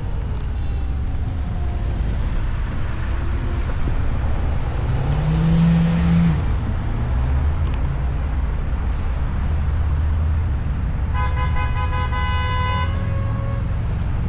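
Steady low rumble of city traffic and wind, with one car horn held for about two seconds near the end.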